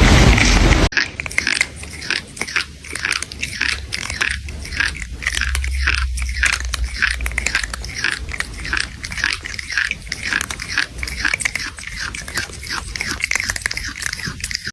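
A burst of loud noise cuts off about a second in. Then comes a long run of rapid, irregular crunching, like food being chewed.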